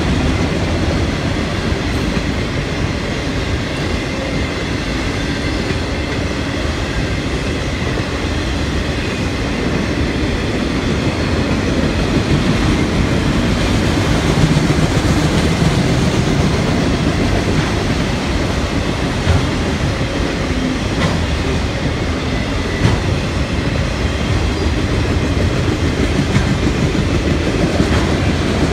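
Freight train of autorack cars rolling past: a steady rumble and rattle of steel wheels on rail, growing a little louder partway through, with a few sharp clicks near the end.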